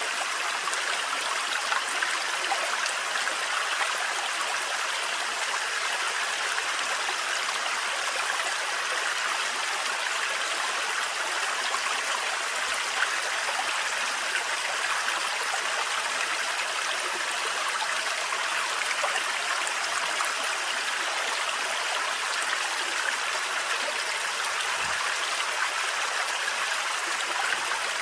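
Thin forest waterfall: water falling and running in a steady, unbroken rush.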